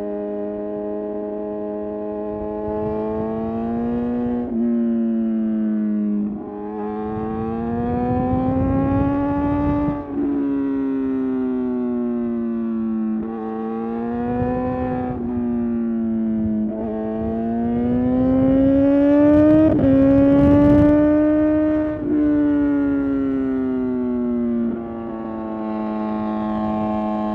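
Suzuki GSX-R750 inline-four engine under riding load. Its pitch climbs and falls several times, with abrupt breaks typical of gear changes. It runs at a steadier pitch at the start and near the end.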